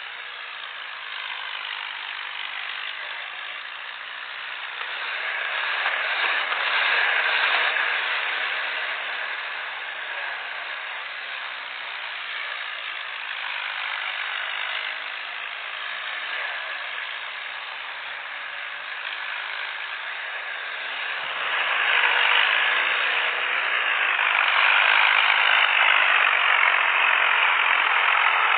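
Tractor diesel engines straining under load in a tug-of-war, a steady noisy drone that swells louder twice, the second time about three quarters of the way through, where it stays up.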